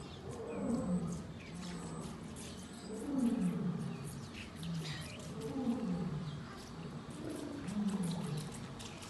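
A lion roaring in a bout of deep grunting calls, each falling in pitch, coming about every second or so. Birds chirp over it.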